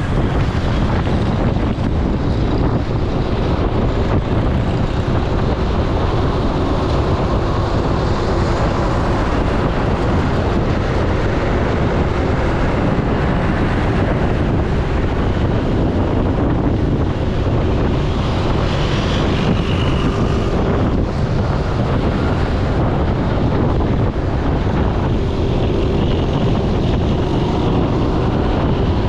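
Steady wind rush buffeting the microphone over a low vehicle rumble, as when recording from a moving vehicle.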